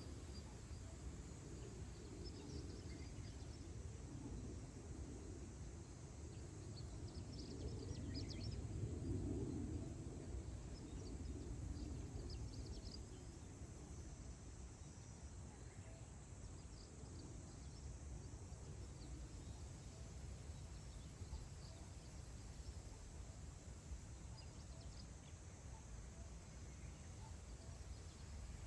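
Wind over open grassland, a low rumble that swells and eases in gusts, strongest about eight to ten seconds in. Faint, distant bird chirps come through now and then.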